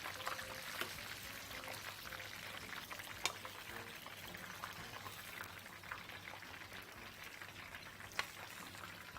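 Chicken lollipops deep-frying in hot cooking oil, a steady sizzle, with a couple of light clicks from a utensil.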